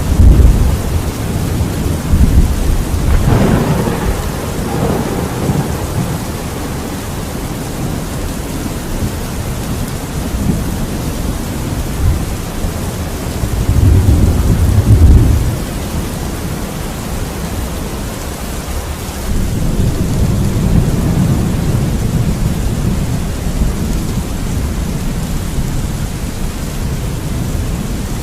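Thunderstorm: steady rain with rolling thunder. A sharper thunderclap comes about three seconds in, a heavy low rumble around fourteen seconds, and a long rumble builds from about twenty seconds.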